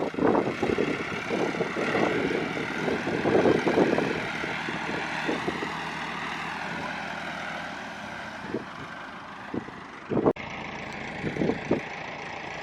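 Tractor engine running under load as it tows a van out of mud, its note wavering slightly and fading as it pulls away. The sound changes abruptly about ten seconds in, followed by a few scattered knocks.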